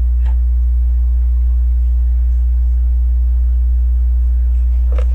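Steady low electrical hum with fainter steady tones above it. A faint click comes shortly after the start and another near the end.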